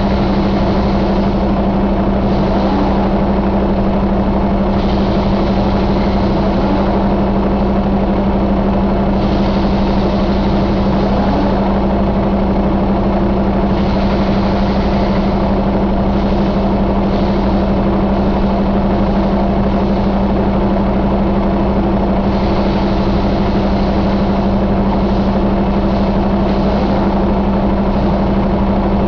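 Cummins X15 inline-six diesel engine idling, a loud steady drone with an even hum that does not change pitch.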